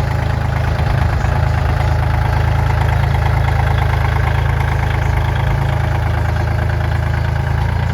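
Kubota L2550 compact tractor's diesel engine idling steadily.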